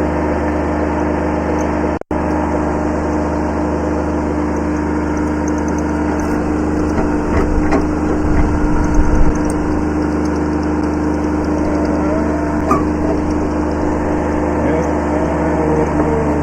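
Kubota B7100 subcompact tractor's small three-cylinder diesel running steadily. For a couple of seconds around the middle it carries a heavier low rumble with a few knocks. The sound cuts out for an instant about two seconds in.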